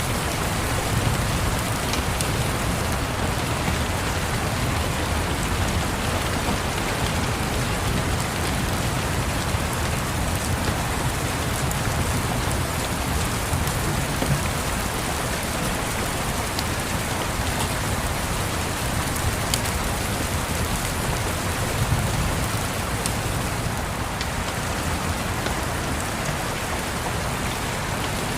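Steady rain with a low rumble that swells now and then, and faint scattered crackles of a wood fire.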